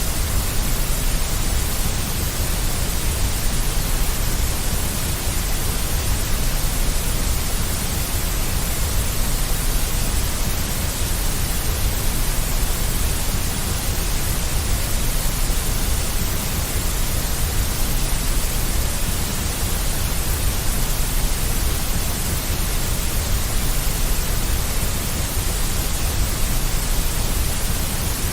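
Steady synthetic deep white noise, a constant hiss weighted toward the low end and more rumbling than bright, unchanging throughout.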